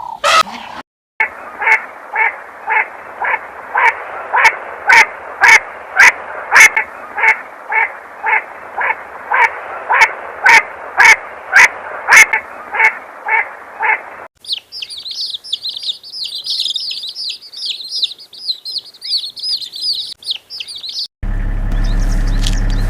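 A long run of short animal calls repeated about twice a second, then a burst of rapid high-pitched bird chirping, then, near the end, a steady low mechanical hum.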